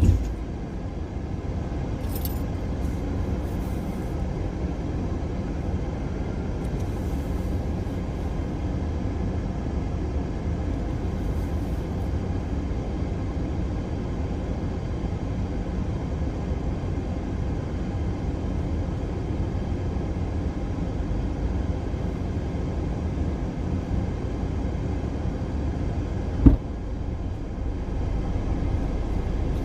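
Steady low rumble of a car heard from inside the cabin. A single sharp knock stands out near the end.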